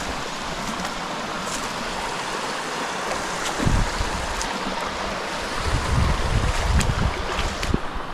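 Creek water running steadily over rocks. Low rumbles come through about three and a half seconds in and again from about six to seven seconds, with a few sharp clicks near the end.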